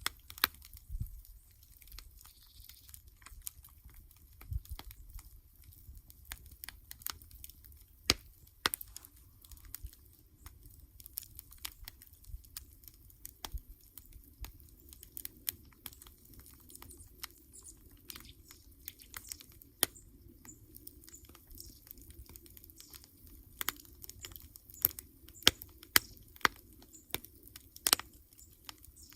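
Wood campfire crackling, with irregular sharp pops and snaps over a soft low rush of flame.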